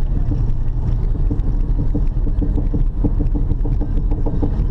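Honda Odyssey driving with a rhythmic clunking knock from the rear left wheel over the steady road rumble. The knock comes from loose wheel nuts.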